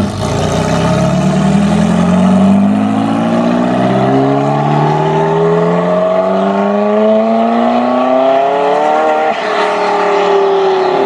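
Supercar engine accelerating, its pitch climbing steadily for about nine seconds, then dropping suddenly and falling away near the end.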